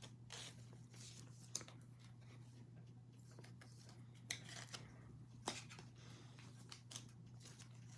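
Faint handling of baseball trading cards: light rustling and a few sharp clicks or taps as cards are slid and flipped, over a steady low hum.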